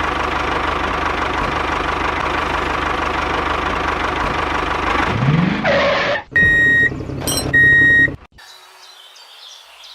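Tractor engine running steadily, its pitch rising briefly about five seconds in. It is followed by two loud beeps of one pitch. The sound then cuts off abruptly to a quiet background with faint chirps.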